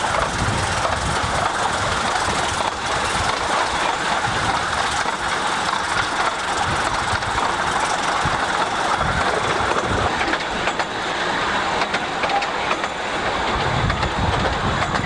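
Wheels of a 15-inch gauge Ravenglass and Eskdale Railway passenger train running along the track: a steady running noise with a clickety-clack of the wheels over the rail joints.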